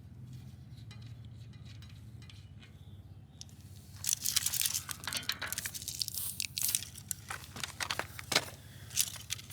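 A low steady hum, then from about four seconds in, irregular crinkling and tearing of paper being handled up close, in a run of sharp crackles.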